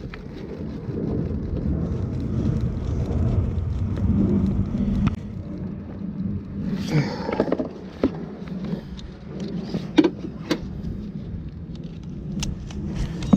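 A low rumble for the first five seconds or so, then irregular sharp clicks and metallic clinks of hand tools at work on the generator's bolts.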